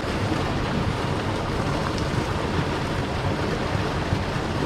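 Steady, loud rush of water pouring over a creek spillway.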